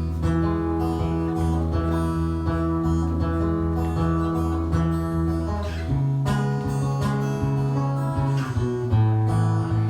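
Acoustic guitar strumming chords in an instrumental passage between sung lines, changing chord about six seconds in and again near the end.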